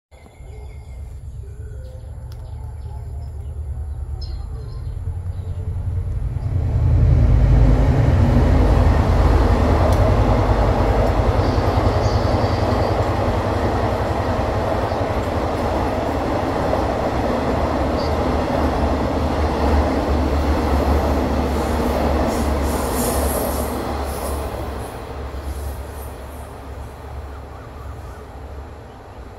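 Diesel-hauled passenger train passing through a station. The engine drone and the rumble of the wheels build over the first several seconds, stay loud, then fade away over the last few seconds. A high-pitched wheel squeal comes about two-thirds of the way through.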